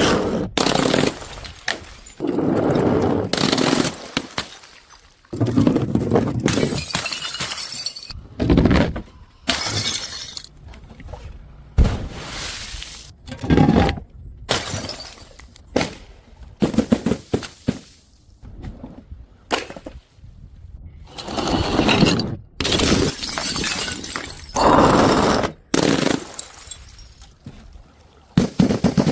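Glass bottles and jars shattering one after another, about a dozen separate breaks, each a sudden crash followed by ringing glass.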